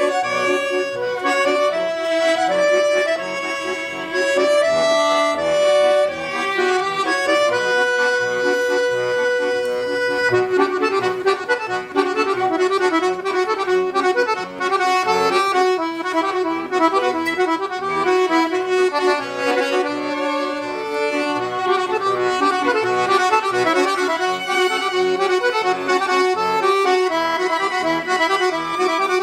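Accordion playing an instrumental tune: a melody of held notes over a regular, pulsing bass accompaniment.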